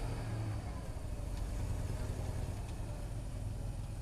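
ZIL-131 army truck's V8 engine running steadily at low revs, a deep even rumble.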